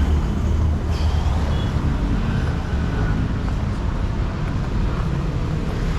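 Road traffic going by: a steady rumble of passing vehicle engines and tyres.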